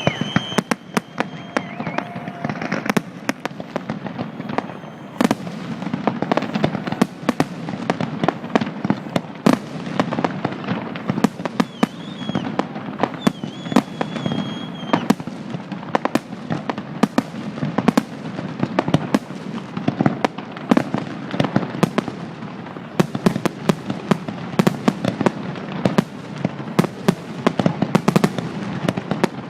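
Fireworks display: a rapid, unbroken barrage of bangs and crackles from aerial shells over a constant low rumble. High whistling tones sound briefly near the start and again about halfway through.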